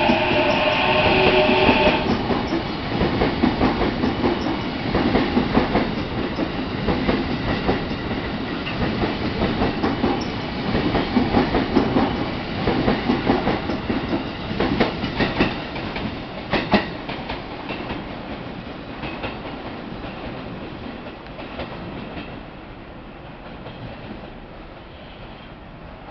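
E233-series electric train pulling out of the station. Its motors whine with a rising pitch for the first two seconds, then the wheels clatter over the rail joints, fading steadily as the train draws away.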